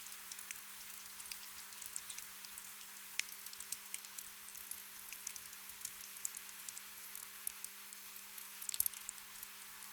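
Gentle rain: a soft steady hiss with many scattered drops ticking at irregular moments, a small cluster of them near the end. A faint steady hum lies underneath.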